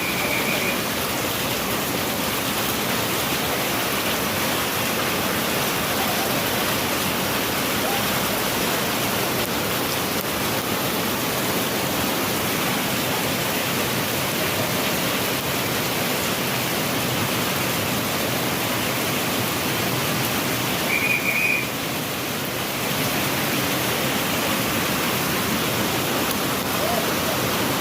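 Steady heavy rain, an even hiss throughout, with a brief high chirp at the start and again about twenty seconds in.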